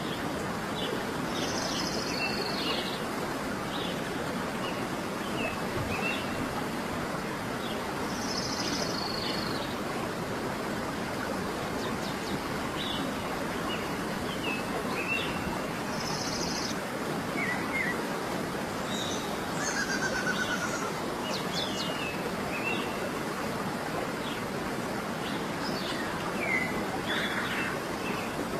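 Birds calling over a steady rushing background: short chirps come every second or so, a longer, higher call repeats about every seven seconds, and a few brief trills come in around two-thirds of the way through.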